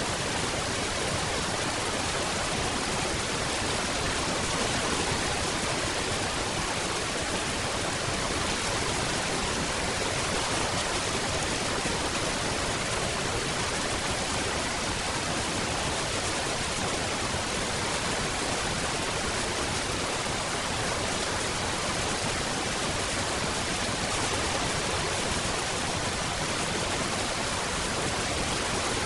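Steady heavy rain: a dense, even hiss with no single drops, thunder or other events standing out.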